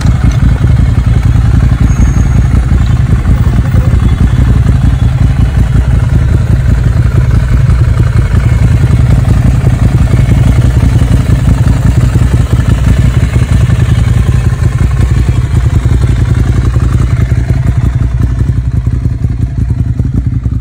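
Ducati Monster 795's air-cooled L-twin engine running steadily through an aftermarket Termignoni exhaust, a loud, deep, rapid pulsing with no revving.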